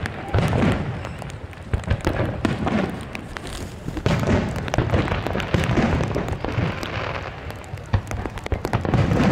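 Aerial fireworks display: a rapid, continuous series of deep shell-burst booms, with many sharp cracks and crackles between them.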